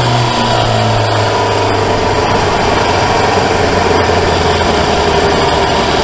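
Motorcycle engine with its revs falling in the first second, then settling into a steady low-revving run close to idle.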